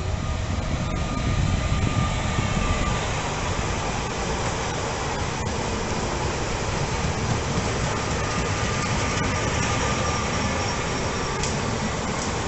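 Electric multiple-unit passenger train running slowly in the station: a steady low rumble of wheels and traction equipment, with a faint thin whine coming and going above it.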